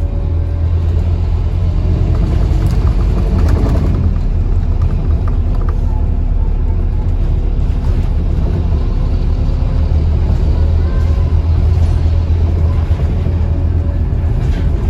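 Scania Enviro 400 double-decker bus running, heard from on board: a steady low engine drone with a few brief rattles about three to four seconds in.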